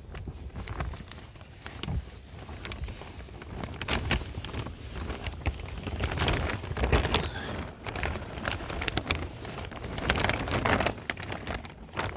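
Rain falling in a storm, with many small drop impacts and gusts of wind rumbling on the microphone.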